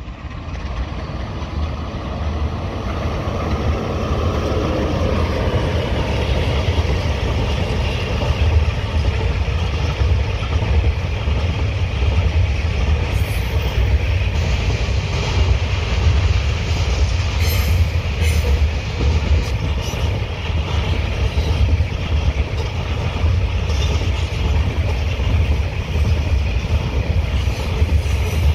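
A train passing close by: a steady, loud rumble of wheels on the rails that builds over the first few seconds and then holds.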